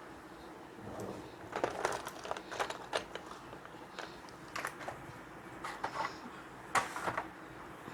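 Irregular light rustles, taps and crackles of paper and drawing things being handled and set up, a scattered run of short sounds with brief pauses between them.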